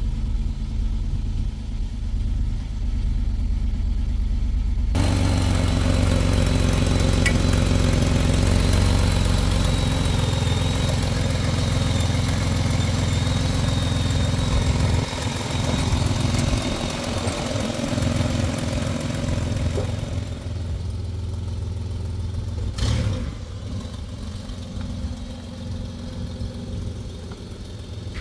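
2007 Chevy Equinox's V6 engine idling steadily with its new serpentine belt on and the alternator charging. It is heard first from the cabin, then louder at the open engine bay from about five seconds in with a faint high whine, then quieter from outside the car. There is a single knock about 23 seconds in.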